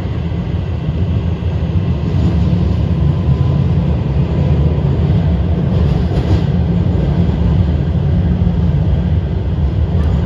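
Beijing Subway Line 6 metro train running at speed between stations, heard inside the carriage: a steady, loud rumble of wheels on rails and running gear.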